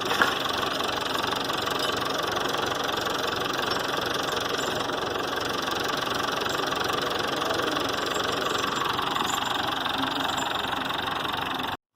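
A vehicle engine running steadily, cut off abruptly near the end.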